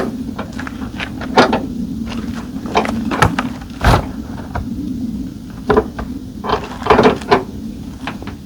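Handling noises from packing up a roof top tent: irregular knocks, clacks and rustles, the loudest about a second and a half, four and seven seconds in, over a steady low hum.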